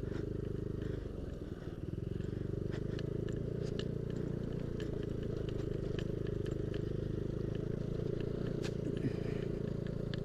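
Yamaha Aerox scooter's single-cylinder engine running steadily while riding a rough dirt track, easing off briefly about a second in. Scattered small ticks and clicks of gravel and stones sound over it.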